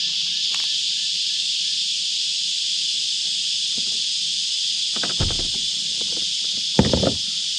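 A chorus of cicadas shrilling steadily and without a break. Two brief thuds break in about five and seven seconds in.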